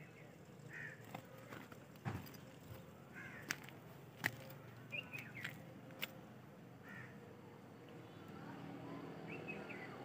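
Birds calling now and then with short, repeated calls, some seconds apart, over faint outdoor background. A few sharp clicks and knocks fall between the calls.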